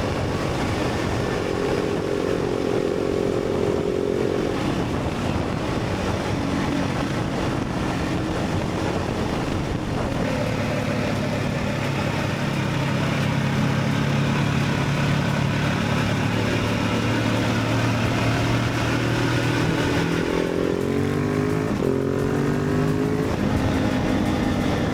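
Motorcycle engine running under way, with wind rush over it. Near the end the engine note climbs sharply a few times, with a break between, as the rider accelerates through the gears.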